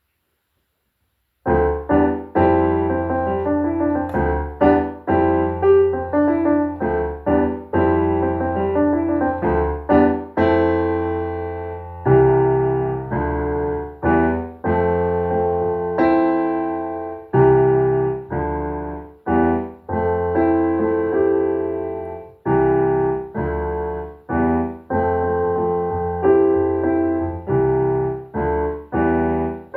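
Keyboard with a piano sound playing a piece in chords over held bass notes, starting about a second and a half in.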